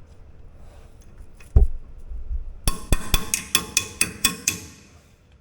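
Tools working on a car's rear brake caliper. A heavy thump, then a quick run of about ten sharp metallic clicks with a ringing tone.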